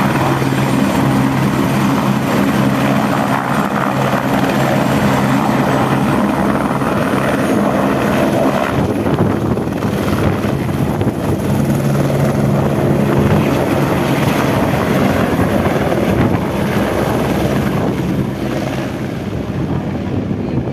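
Helicopter running loudly and steadily: turbine and rotor noise with a steady low hum of rotor tones, easing off slightly near the end.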